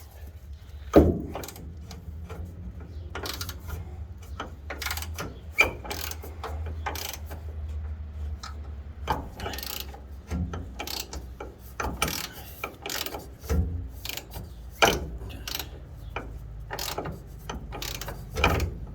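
Hand socket ratchet working a stiff, rusty bumper bolt loose: runs of ratchet clicks at an uneven pace, broken by a few louder metallic knocks, the loudest about a second in. The bolts are seized enough that penetrating oil would have helped.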